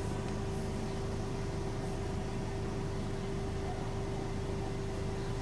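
Car engine idling, heard from inside the cabin: a steady low rumble with a constant hum tone over it.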